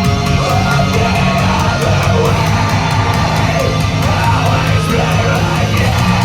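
A loud live rock band playing heavy, distorted music with driving drums and a voice yelling and singing over it.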